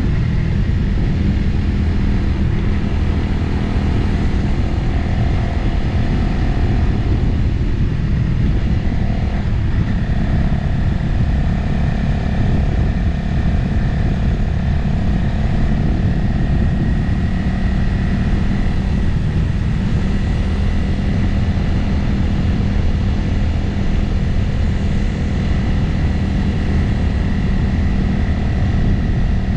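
Motorcycle engine running steadily while riding at road speed, its pitch shifting slightly a couple of times, with wind noise on the microphone.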